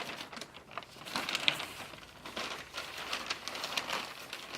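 Irregular rustling and soft clicks of things being handled, with a crinkling, paper-like texture.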